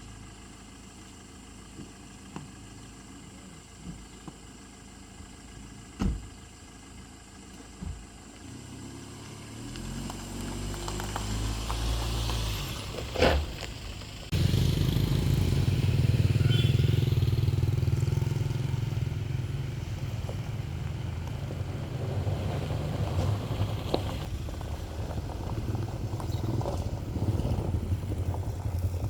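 A motor vehicle engine: faint at first with a few knocks, growing louder from about nine seconds in, then after a sharp knock it jumps suddenly to a loud, steady low engine rumble.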